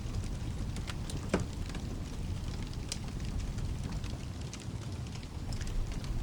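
Fireplace crackling, with scattered sharp pops and one louder pop about a second in, over a steady low rumble and hiss of rain.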